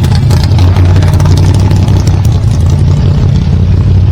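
Hot rod engine idling with a loud, steady low exhaust rumble.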